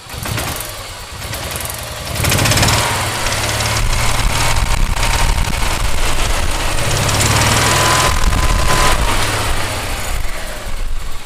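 Kawasaki FJ400 engine of an EZGO TXT gas golf cart turning over and running on its starter generator for several seconds. It comes in loud about two seconds in and eases off near the end. The starter generator turns only after the clutch is moved, which the mechanic takes for brushes not landing on the armature.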